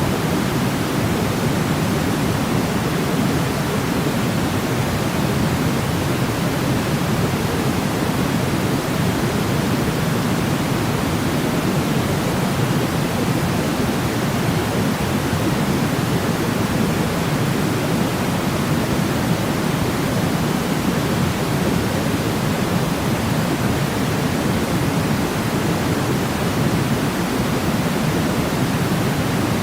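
Steady, unbroken sleep noise, deep and rushing, with most of its weight low rather than hissy. It does not change throughout.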